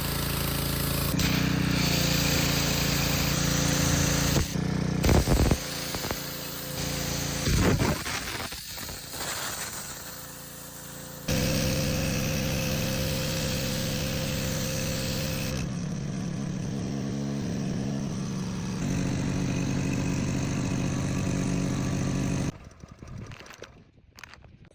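Pressure washer running and spraying through a triple-jet nozzle: a steady motor and pump hum under loud hissing water spray, easing off for a few seconds in the middle, then loud again until it cuts off shortly before the end.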